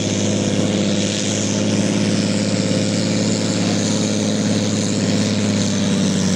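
Turbocharged diesel engine of a sport-class pulling tractor running at steady high revs under full load, dragging the weight sled.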